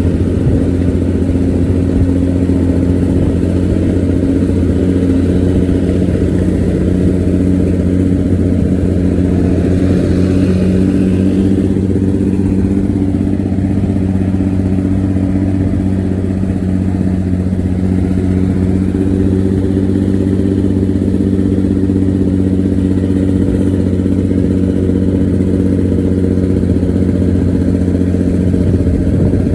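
Local bus engine running steadily through its exhaust, a deep, even, growling drone at constant pitch: the bus's characteristic 'ngorok' exhaust note.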